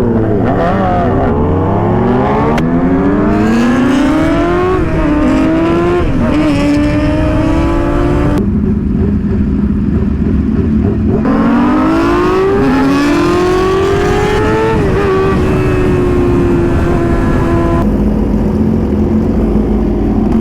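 Sport motorcycle engine accelerating hard through the gears: the pitch climbs and drops back at each upshift, holds steady for a few seconds, climbs through two more shifts about halfway through, then settles into a steady cruise.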